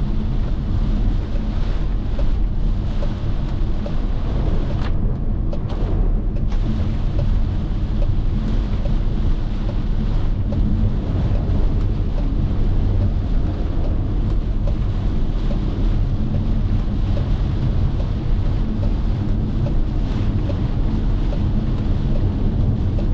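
Steady road and wind noise of a car driving on a highway, a constant low rumble of tyres and engine with wind buffeting the microphone.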